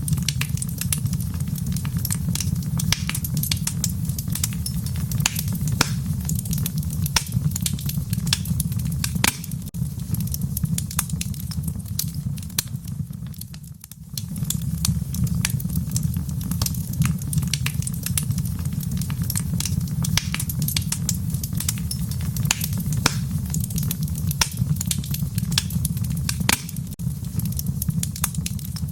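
Wood fire in a fireplace crackling, with a steady low rumble of burning and many small sharp pops and snaps. The level dips briefly about halfway through.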